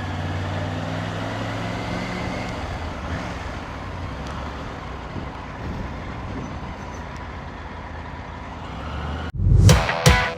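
Motorcycle engine running steadily at low speed. About nine seconds in it cuts off abruptly and loud electronic music with a heavy beat starts.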